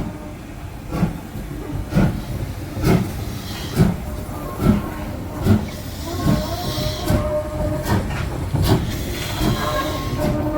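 Train wheels clicking over rail joints at slow speed, about one click a second and gradually quickening, over a steady rumble. A thin squeal from the wheels or brakes joins in about halfway through.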